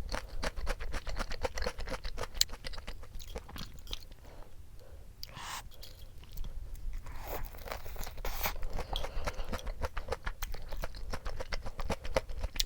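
Close-up crunching and chewing of crispy fried chicken (yuringi), many quick crisp crunches, with a brief quieter lull about five seconds in.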